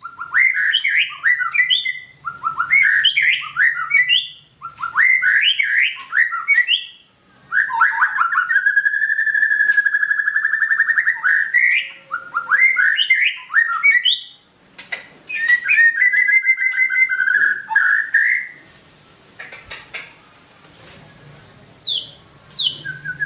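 White-rumped shama singing vigorously: a run of short, varied whistled phrases with brief pauses between them, a long rapid trill a third of the way in and another about two-thirds through. Near the end the song drops away to a few high falling whistles.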